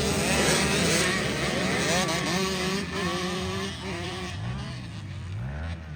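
A pack of off-road dirt bikes revving hard, several engines overlapping and rising and falling in pitch as they accelerate, growing fainter over the last couple of seconds.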